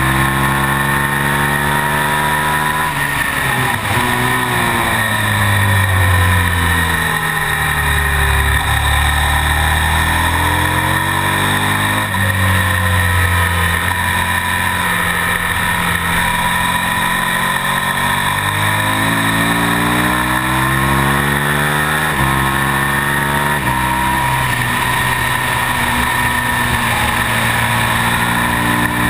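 KTM Super Duke's V-twin engine on a race lap, heard from the bike with wind noise over it. The revs fall away about three seconds in, swing down and up through the middle, then climb again with sharp drops at each upshift around twenty to twenty-three seconds in, before holding steady near the end.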